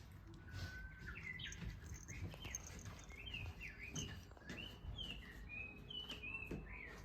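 Small birds chirping and twittering: a continuous run of short, quick chirps that slide up and down in pitch, over a faint low background rumble.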